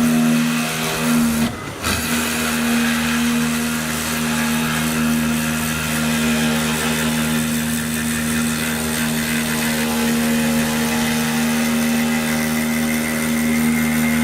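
3-axis CNC milling machine running: a steady motor hum with a higher hiss over it, briefly dipping about a second and a half in.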